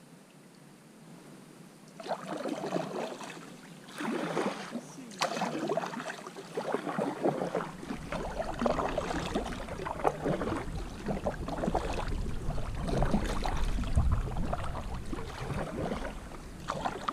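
Water splashing and slapping around a kayak on choppy, wind-blown lake water, starting about two seconds in, with wind buffeting the microphone from about eight seconds in.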